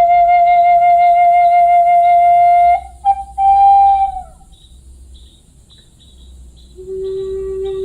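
Slow flute music: a long held note with a slight vibrato, a short note that fades away, a pause of about two seconds, then a lower note held near the end.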